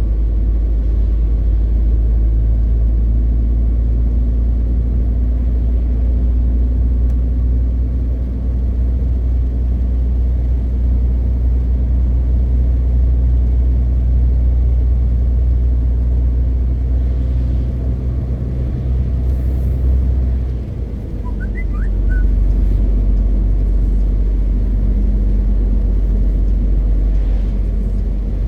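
MAN TGX 520 truck engine droning steadily while driving, heard from the cab. The drone dips briefly about two-thirds of the way through, then steadies at a slightly different note.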